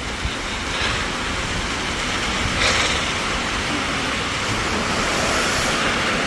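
Steady rush of storm wind, gusting against the microphone, with a swell about three seconds in.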